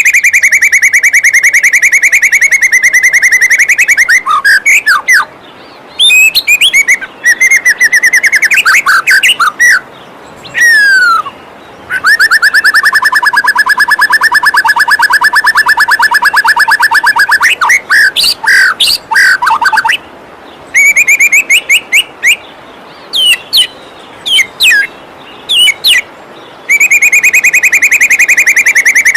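Songbird singing loud, long runs of rapid repeated notes, broken by trills and quick whistled sweeps with short pauses between phrases, over a faint steady rush of falling water.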